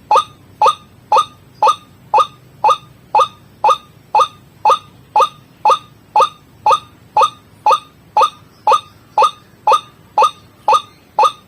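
White-breasted waterhen (ruak-ruak) calling: a short, falling note repeated steadily about twice a second. It is a looped lure call recording used to attract the bird.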